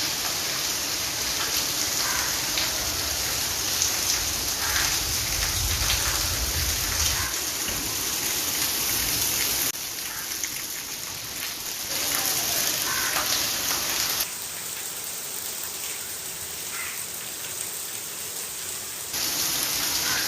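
Torrential rain pouring down in a steady, dense hiss, with a low rumble through the first seven or eight seconds. The level jumps up or down abruptly a few times.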